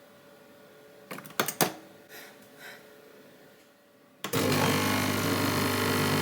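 A few sharp clicks of the coffee machine being handled, then about four seconds in the machine's motor starts with a sudden loud, steady hum and hiss.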